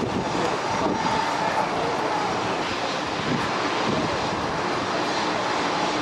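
Airliner jet engines running, a steady, even noise.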